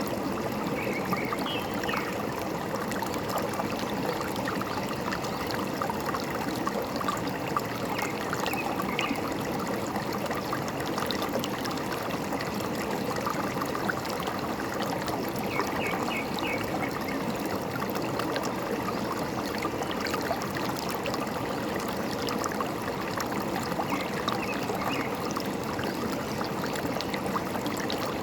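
Forest stream trickling and babbling steadily, with a few faint, short bird chirps now and then.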